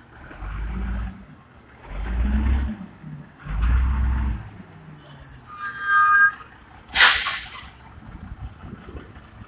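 Diesel engine of a 1995 White GMC automated side-loader garbage truck rising three times in quick surges, then a high squeal and, about seven seconds in, a short sharp air-brake hiss.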